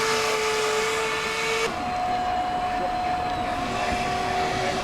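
Radio-controlled model boat motor running with a steady whine; about a second and a half in, the note switches abruptly to a higher pitch.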